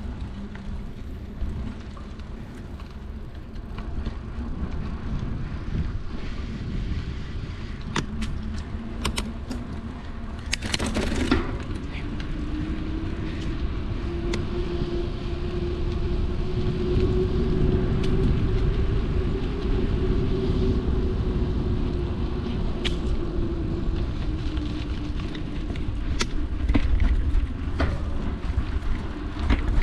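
A mountain bike rolling, with heavy low wind rumble on the GoPro's microphone and scattered clicks and rattles. A steady hum runs under it and steps up in pitch after a short loud burst of noise about eleven seconds in, then rises and falls gently.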